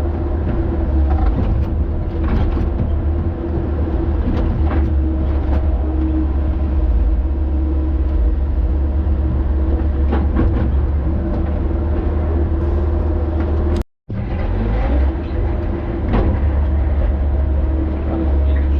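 Excavator's diesel engine running steadily, with scattered clanks and knocks from the bucket and material as it digs and loads. The sound cuts out for a split second about two-thirds of the way through.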